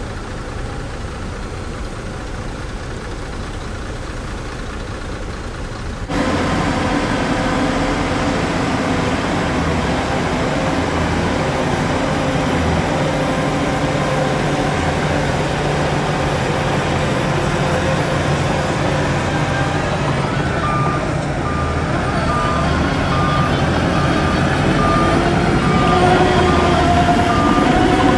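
Heavy diesel earthmoving machinery (bulldozer and dump truck engines) running steadily, suddenly louder about six seconds in. From about twenty seconds in, a reversing alarm beeps at an even pace over the engines, the sign of a machine backing up.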